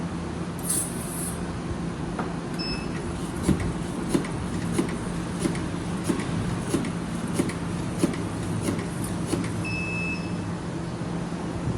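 Automatic round-corner velcro tape cutting machine running with a steady hum, its cutter striking about three times every two seconds for several seconds. A short beep sounds just before the strokes begin and again after they stop, and there is a brief hiss about a second in.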